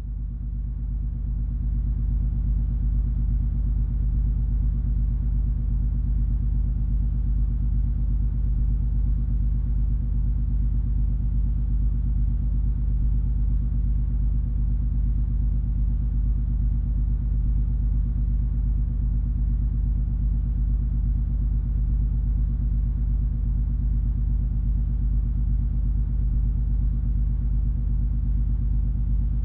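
Cruise ferry MS Color Magic's engines and machinery giving a steady low drone with a few held low tones and a light hiss over it, fading in over the first couple of seconds and then unchanging.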